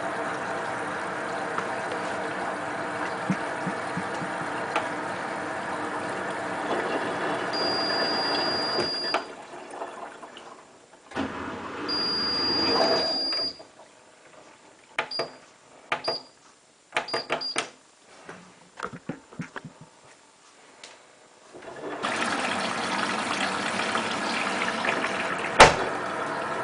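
Hotpoint WT960 washing machine running with a steady motor hum. About a third of the way in it goes nearly quiet apart from two short high tones and a run of sharp clicks, then starts running again near the end.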